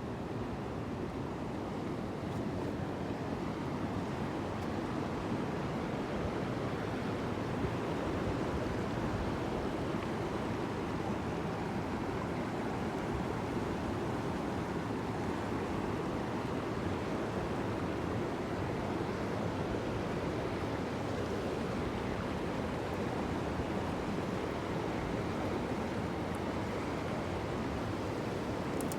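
Steady, unbroken rush of moving water, with no distinct splashes or swells.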